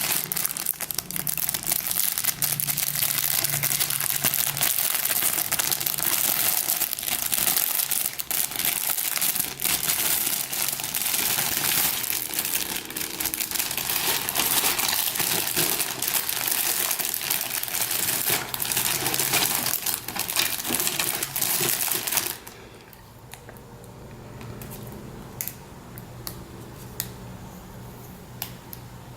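Packaging crinkling and rustling continuously as model kit parts are unwrapped and handled. It stops abruptly about three-quarters of the way through, leaving a few light clicks.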